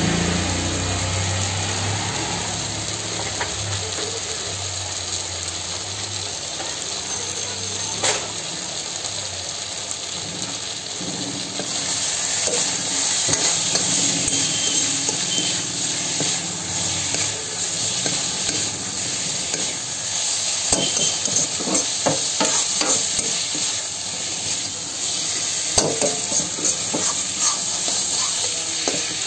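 Chicken momos in sauce sizzling in a hot wok while a metal ladle stirs and tosses them, scraping and knocking against the pan. The sizzle grows louder about twelve seconds in, and the ladle strokes come thicker in the last third.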